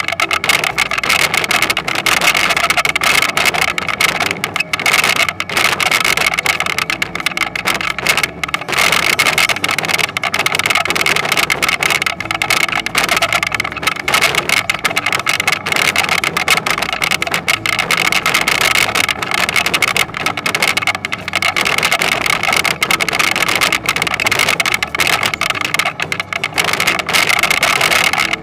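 Toyonoki potato harvesting machine running steadily, its engine going with a continuous dense rattle of machinery.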